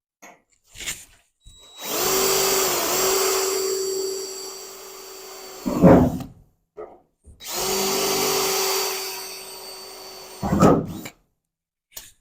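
Electric drill running in two spells of about four seconds each, drilling out spot welds in the car body's sheet metal with a spot weld cutter. Each spell ends with a short, louder burst.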